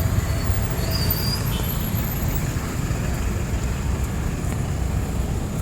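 Steady street noise of a city at night: a low traffic rumble under an even hiss, with a few faint high squeaks about a second in.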